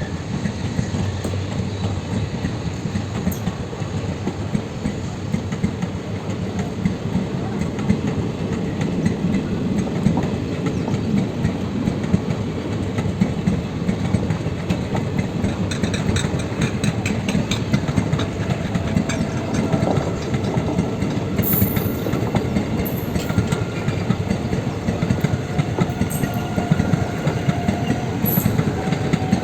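Train in motion: a steady rumble and rattle of wheels on the track, with a run of sharper clicks about halfway through.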